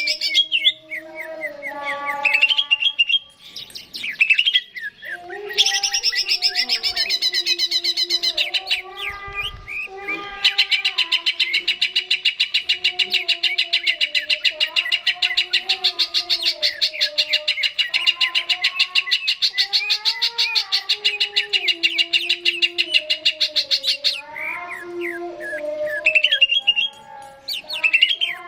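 Cucak ijo (green leafbird) singing loudly, with varied chirps and whistles. From about ten seconds in, it breaks into a long, fast, even trill that runs for over ten seconds before returning to varied phrases. A low, slowly wavering tone sounds faintly underneath.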